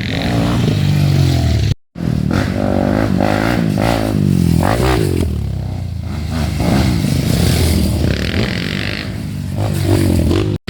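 Dirt bike engines revving in mud, pitch rising and falling as the throttle is worked. The sound cuts out completely for a moment just before two seconds in.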